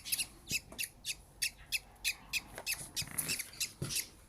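Budgie chicks cheeping in a rapid series of short, high-pitched cheeps, about four a second.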